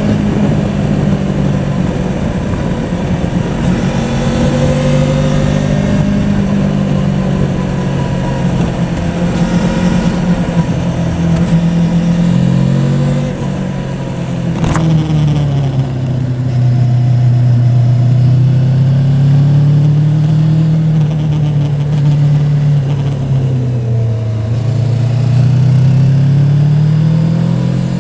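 Yamaha Tracer 700 motorcycle's parallel-twin engine running under way, its pitch rising and falling with the throttle. The revs drop a little past the middle, and there is a single sharp click about halfway through.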